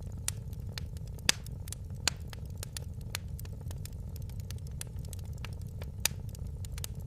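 Fire crackling in a fireplace: a steady low rumble of flames under many irregular sharp pops and snaps. The loudest snaps come about a second in, at two seconds, and about six seconds in.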